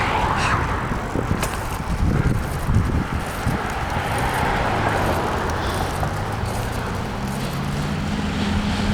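Wind rumbling and buffeting on the microphone of a moving bicycle, with road traffic. From about halfway in, a steady low engine hum from a nearby vehicle joins it.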